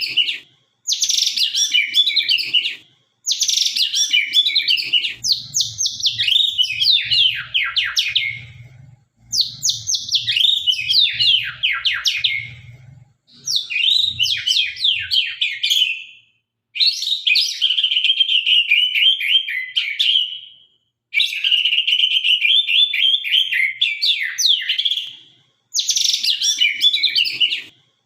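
White-rumped shama (murai batu, Sabang strain) singing continuously in sharp phrases of two to four seconds with brief pauses between them. The song mixes rapid falling notes with steadier trills.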